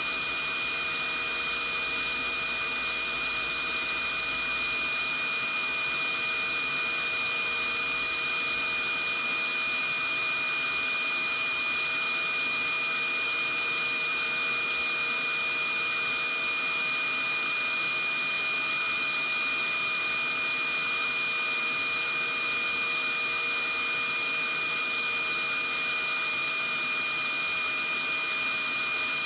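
Vacuum cleaner running steadily: a constant rush of air with a steady high-pitched whine over it, unchanging throughout.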